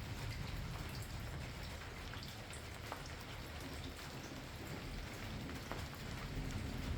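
Steady rain, with individual drops tapping sharply through the hiss. A low rumble of thunder begins to swell near the end.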